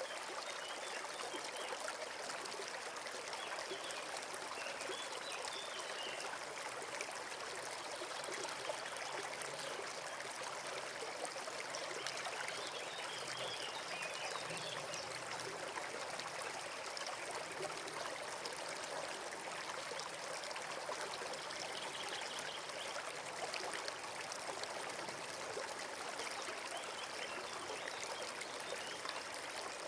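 Forest brook flowing and trickling steadily.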